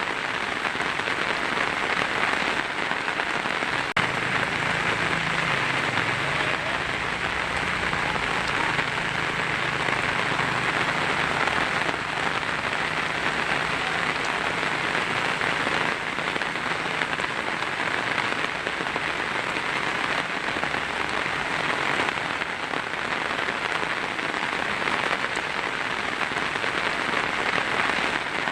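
Heavy rain falling steadily on a tin roof: a dense, even hiss of drops striking metal, unchanging throughout.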